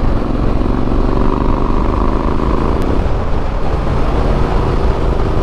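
Motorcycle engine running steadily at road speed under a dense rush of road and wind noise; its engine note shifts about halfway through.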